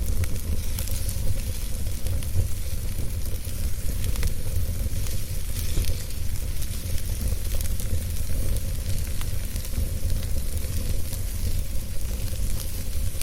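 Wood fire burning in a fireplace, with steady hissing and scattered small crackles and pops over a low rumble.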